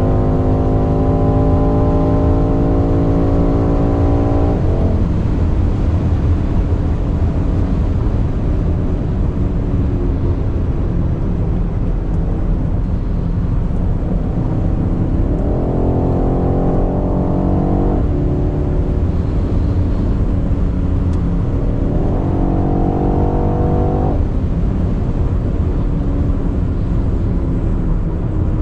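BMW X5 M F95's twin-turbo V8 pulling at speed, its note rising steadily for about four and a half seconds and then cutting off suddenly as the throttle is lifted. It then pulls twice more in shorter rises, each ending just as abruptly, over a constant deep rumble of road and wind noise.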